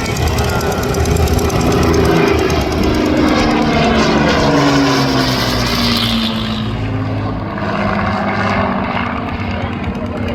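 Hawker Hurricane's Rolls-Royce Merlin V12 engine and propeller flying past. Its steady drone drops in pitch over about four seconds as the plane goes by, then slowly fades.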